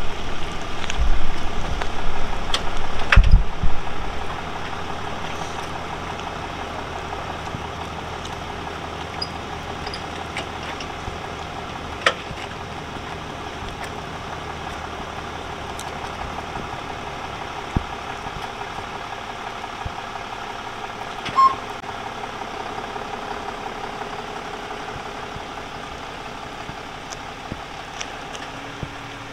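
A vehicle engine running steadily under an even hiss of road and rain noise. Several loud knocks and bumps come in the first four seconds, and a few faint clicks follow.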